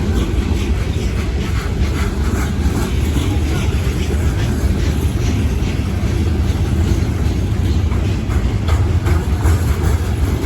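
CSX manifest freight train's cars rolling past on the rails: a steady heavy rumble with repeated wheel clicks.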